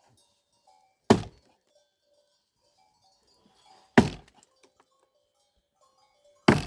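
Three heavy blows on wood, about two and a half to three seconds apart, each a sharp thunk that dies away quickly: firewood being chopped.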